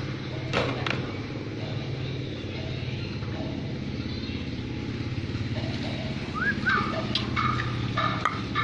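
A steady low motor hum, with a few clicks early and then two short rising chirps and several short pitched calls from a pet bird in the last two seconds or so.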